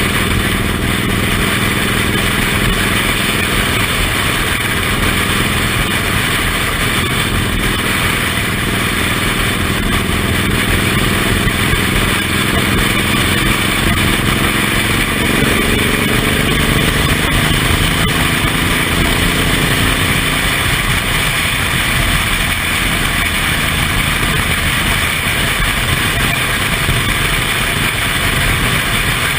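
Suzuki Intruder M1800R's V-twin engine running under way, its pitch rising as the bike accelerates midway through, under steady rushing wind and road noise.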